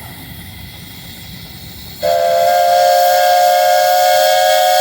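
Steam whistle on a 1920 Advance-Rumley 20 horsepower steam traction engine, starting abruptly about two seconds in and sounding one long, steady blast: a chord of several tones over a hiss of steam.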